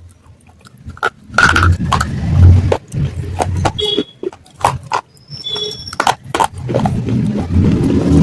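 Fired clay of a matka (earthen pot) being crunched: a rapid, irregular run of sharp cracks and crumbling with dull low thumps.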